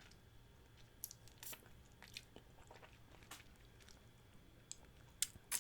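A person chewing a mouthful of spicy chicken feet and chewy glass noodles: faint, scattered wet mouth clicks and smacks, a few louder ones near the end.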